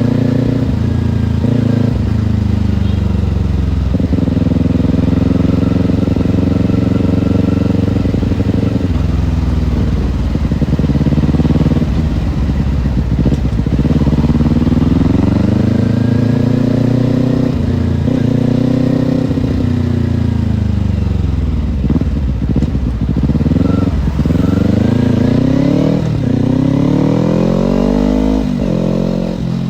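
Kawasaki Ninja parallel-twin engine running under way, its revs rising and falling several times as the throttle opens and closes.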